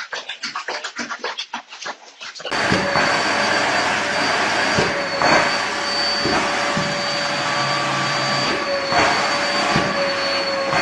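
A rapid series of small clicks. About two and a half seconds in, it cuts to a household electric motor running steadily with a loud rush of air and a high whine, typical of a vacuum cleaner.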